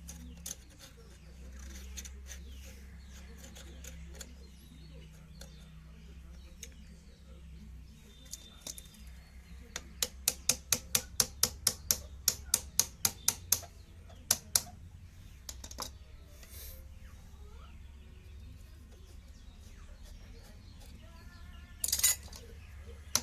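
Sewing machine mechanism clicking sharply as it is worked, a rapid even run of about five clicks a second for a few seconds and then a few single clicks, over a steady low hum. A short, louder rasp comes near the end.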